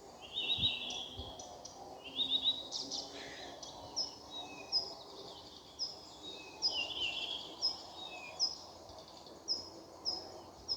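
Songbirds singing in a birch wood: short rapid trilled phrases, and a single high note repeated about once a second through the second half.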